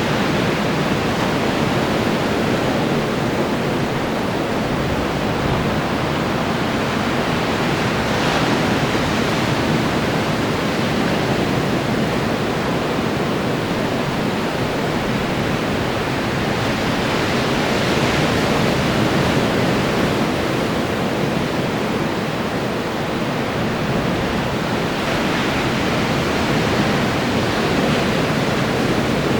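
Ocean surf: a steady wash of waves breaking on the shore, swelling a little as a bigger wave breaks about every eight to ten seconds.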